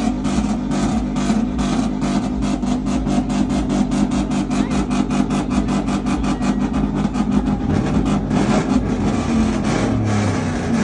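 A truck engine running steadily with a fast, regular pulsing.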